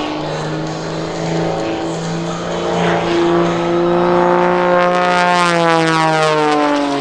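Wolf Pitts Pro aerobatic biplane's piston engine and propeller droning through a manoeuvre, the pitch rising slowly and the sound growing louder, then the pitch dropping sharply as the plane passes close near the end.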